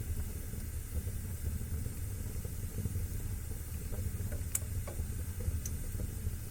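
Fireplace wood fire burning with a steady low rumble and hiss, with a few crackling pops, the sharpest about four and a half and five and a half seconds in.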